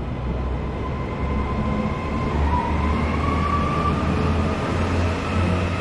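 Northern Class 331 electric multiple unit pulling away, its traction motors giving a whine that rises in pitch from about halfway through, over a low rumble.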